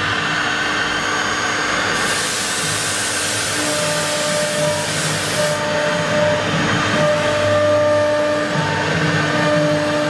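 Two-spindle CNC wood router running, its spindles whining steadily over machine noise. A harsher hiss joins in from about two seconds in and stops suddenly a few seconds later.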